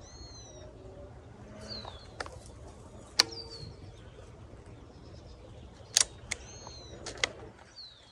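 Small birds chirping on and off, short arched or falling calls repeated several times, with a few sharp clicks between them, the loudest about six seconds in.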